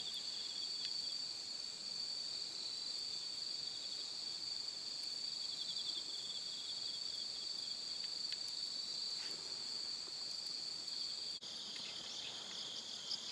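Crickets and other insects singing steadily in several high, continuous bands, with a momentary drop-out about eleven seconds in.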